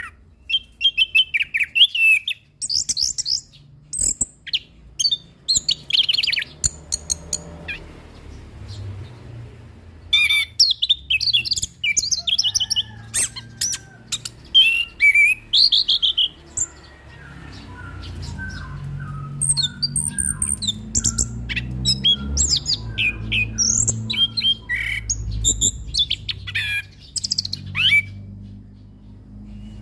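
Orange-headed thrush singing a long, varied song of rapid whistled and chattering phrases in bursts with short pauses, over a low background rumble.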